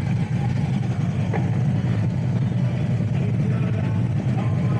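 Harley-Davidson motorcycle's V-twin engine running steadily, a continuous low rumble.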